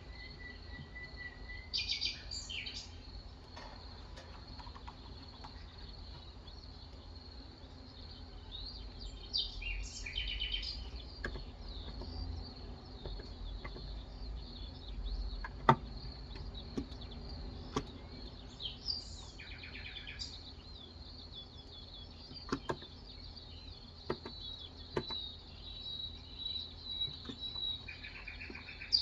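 Birds chirping in short bursts four times, over a steady high-pitched tone. Scattered single key presses on an electrostatic capacitive keyboard sound as sharp clicks, the loudest about halfway through.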